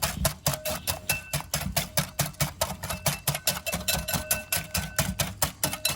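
Whisk beating mayonnaise in a bowl by hand, knocking the bowl in a steady rhythm of about four to five strokes a second, each knock leaving a faint ring.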